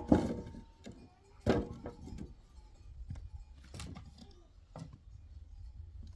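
A handful of separate knocks and clunks, about five spaced a second or more apart, over a low steady rumble.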